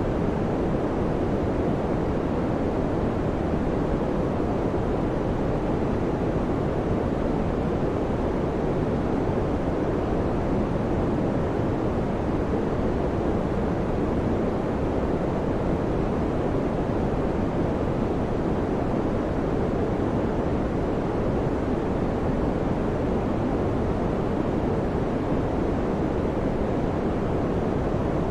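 Electric fan running at a steady speed: an even, unchanging rush of air noise, mostly low and mid-pitched, with no clicks or changes.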